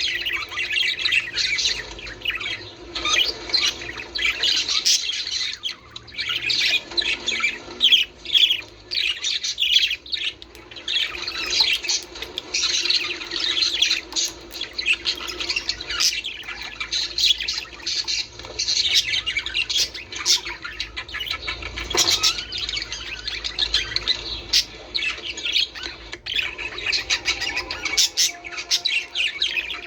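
A flock of budgerigars chattering: a dense, continuous stream of warbles, quick chirps and sharp squawks.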